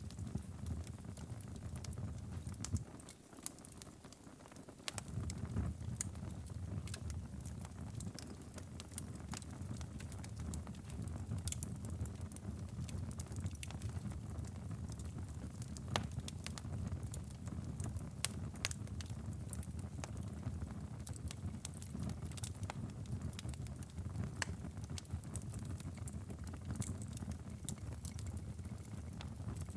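Wood fire crackling, with irregular sharp pops and snaps over a steady low rumble. The rumble drops away for a couple of seconds near the start, then returns.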